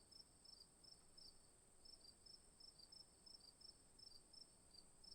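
Near silence: faint high chirps repeating about three to four times a second over a steady faint high whine.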